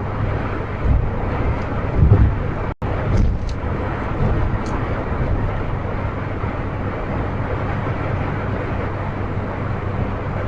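Steady road and engine noise of a car driving, heard from inside, with a sudden gap about three seconds in.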